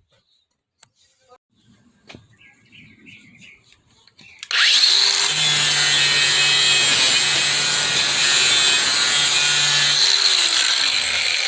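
Bauer cordless angle grinder spinning up about four seconds in, then grinding rust off steel with a loud, steady rasp for about five seconds, lifted off and winding down near the end. Light handling clicks come before it starts.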